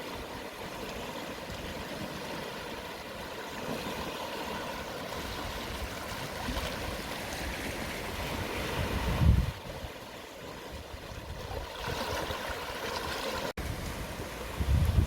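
Gentle low-tide waves washing over the shore in a steady, soft wash of water. Wind buffets the microphone with a low rumble about nine seconds in and again near the end.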